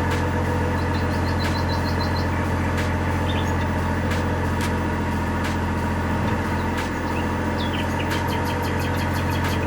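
Small motor of a miniature model water pump running steadily with an even hum. Runs of short high chirps come about a second in and again near the end.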